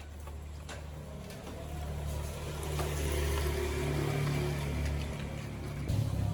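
Low engine drone that swells over a few seconds and eases off near the end, with a short knock just before the end.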